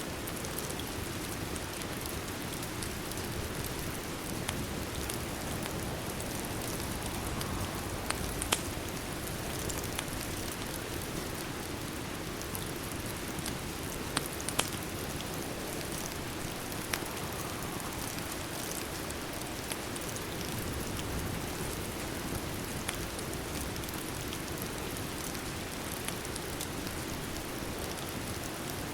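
Steady rain falling on a surface, an even hiss. A few sharp clicks stand out, around 8 and 14 seconds in.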